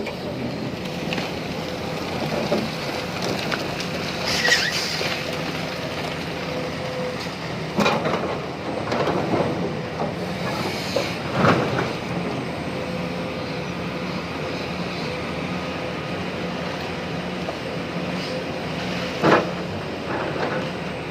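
Large Tata Hitachi Zaxis 870 LCH excavator working: its diesel engine and hydraulics run with a steady hum, broken by about four loud clunks and knocks at irregular intervals.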